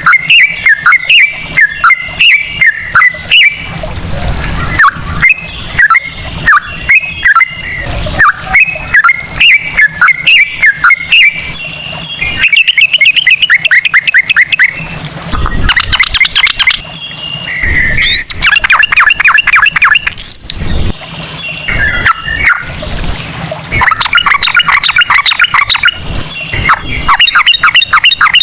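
Yellow-vented bulbul (trucukan) singing loudly. Bubbly, choppy chirped phrases give way after about twelve seconds to bouts of very fast trills (the 'ropel'), with a short rising whistle in the middle of one bout.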